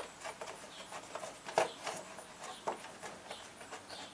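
Light, irregular clicks and small scrapes of a 1/4-inch drive ratchet working loose the bolt that holds down an engine cover.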